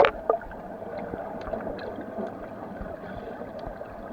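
Water sloshing and gurgling around people bathing, with a few faint knocks.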